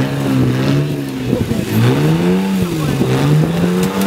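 Off-road 4x4's engine revving up and down under load, its pitch rising and falling several times and settling higher near the end.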